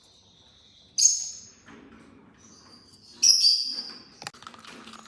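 Hand-reared baby parrot chicks giving loud, hoarse, high begging calls, twice strongly: about a second in and just after three seconds in. Light clicks and taps follow near the end.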